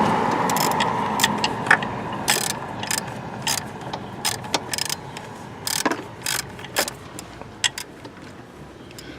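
Irregular sharp metallic clicks and clanks of hand tools and parts being worked in a car's engine bay, about two a second and unevenly spaced. They sit over a rushing background noise that fades during the first couple of seconds.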